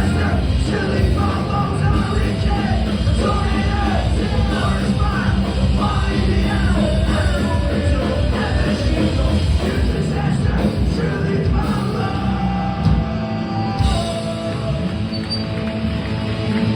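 Live punk rock band playing loud, with sung and yelled vocals over the band until about three-quarters through, after which the instruments play on with long held notes.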